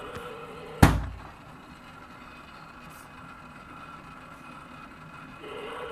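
A motor running with a steady whine, broken about a second in by a single loud thump; the whine then drops back and comes up again near the end.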